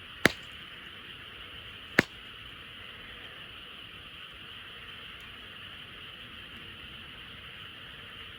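A dense frog chorus keeps up a steady, even chatter. Over it the campfire's burning wood gives two sharp pops, one just after the start and one about two seconds in.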